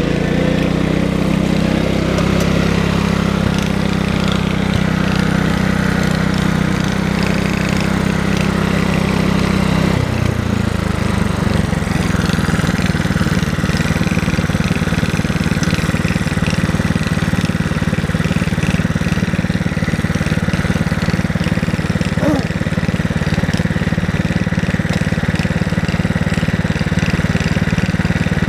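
Tractor engine running steadily and loudly, its note changing to a rougher, rattling sound about ten seconds in.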